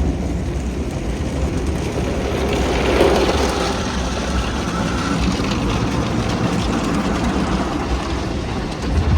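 Automatic tunnel car wash heard from inside the car: the wash brushes scrubbing over the car body with a steady low rumble, swelling briefly about three seconds in.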